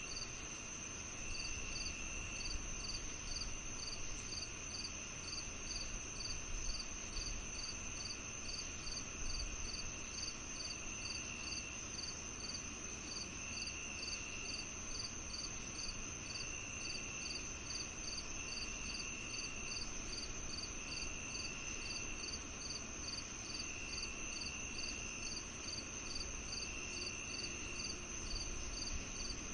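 Crickets and other insects calling together on a summer evening: a steady high trill, a regular chirp about twice a second, and a lower buzzing trill that starts and stops every couple of seconds.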